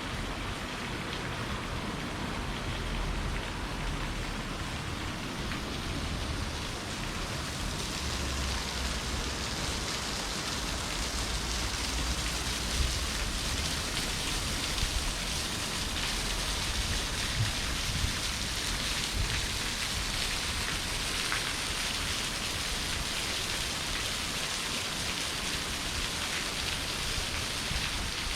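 Steady rushing water noise, with patches of low rumble now and then.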